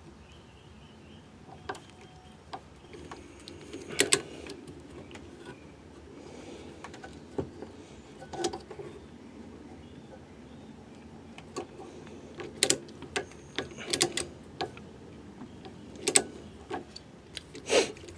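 Irregular light clicks and knocks of small metal tools being handled against a small electrical switch during hand thread-tapping, with a dozen or so scattered sharp ticks.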